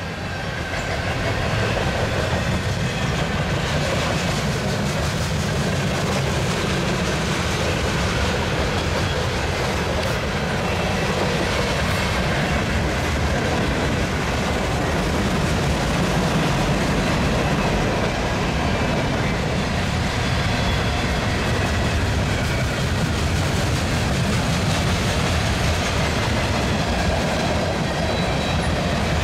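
Union Pacific mixed freight train's cars rolling past on the track, a steady rumble that does not let up.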